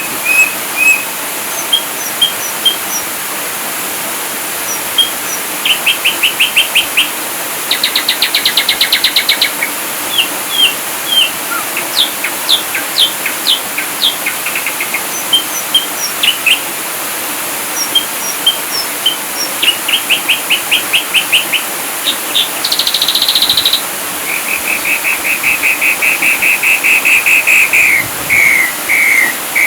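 Ashy drongo singing: a varied, continuous run of short whistled chirps, fast trills and rapid strings of repeated notes, with a steady hiss underneath.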